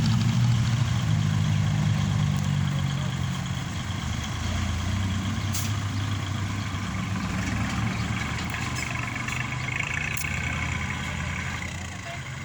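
Diesel engine of heavy machinery running steadily, loudest in the first few seconds and then easing to a lower level.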